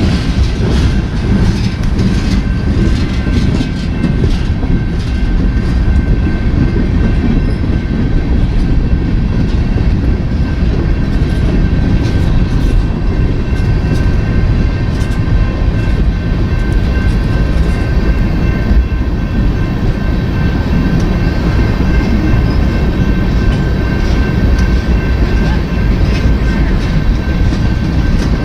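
Freight train rolling past: a steady loud rumble of railcars with scattered wheel clicks over the rail joints and a thin, steady high tone over the top.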